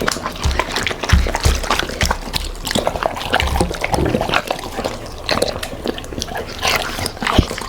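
Labrador and golden retriever eating: quick wet chewing, smacking and licking sounds, with a few low thuds.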